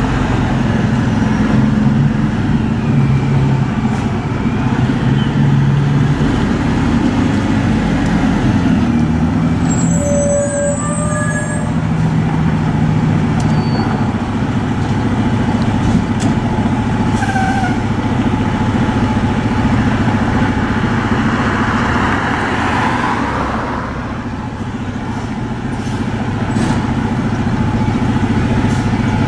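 Fire apparatus diesel engines running at low speed, a steady heavy-truck rumble, with a stretch of air hiss from the air brakes about three-quarters of the way through.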